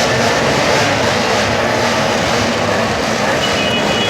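Racing motorcycle engines running, a steady loud drone.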